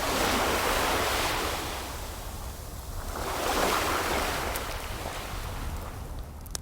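Ocean waves washing in, two swells of surf, one at the start and another about three and a half seconds in, with a few faint fire crackles.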